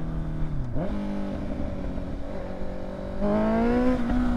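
Honda CBR650's inline-four engine running through an aftermarket exhaust. Its note falls as it slows, dips sharply and jumps back up about a second in, as at a gear change, then holds steady. Near the end it gets louder and climbs in pitch as it accelerates.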